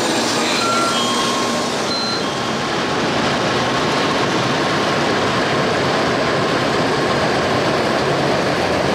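Tokaido Shinkansen train pulling out of the station past the platform, a steady rushing noise of the moving train.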